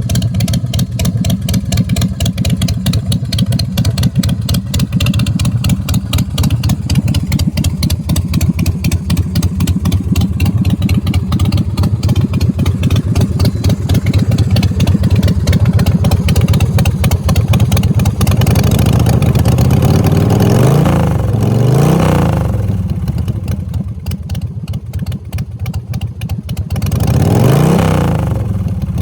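2003 Big Dog rigid chopper's 107-cubic-inch S&S V-twin engine running steadily through its exhaust pipes, then revved up and let back down twice in the last ten seconds.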